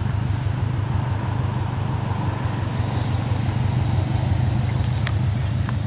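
Car engine idling with a steady low rumble, with a couple of faint clicks near the end.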